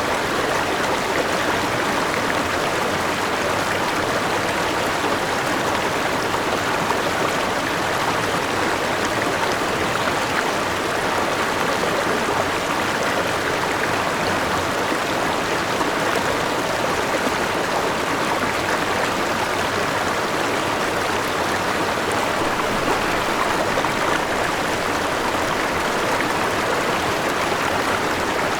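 River water rushing steadily over a small waterfall, an even, unbroken noise.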